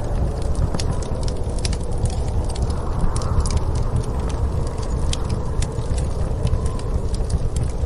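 Wood fire crackling with irregular sharp pops and snaps, over a steady low rumble of storm wind with a soft, slowly swelling and fading hum.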